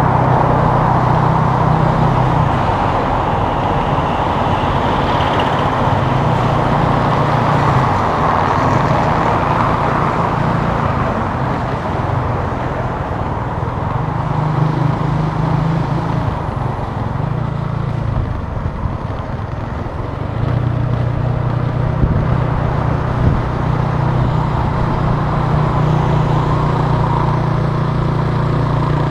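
Italika TC300 motorcycle engine running under way, with wind rush on the microphone. The engine note eases off and drops for a few seconds about two-thirds through, as the throttle is closed, then picks up again and holds steady.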